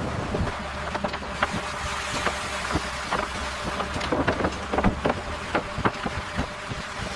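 Construction-site machinery noise: a steady low rumble with many short, sharp knocks and clicks at irregular intervals, coming more often in the second half.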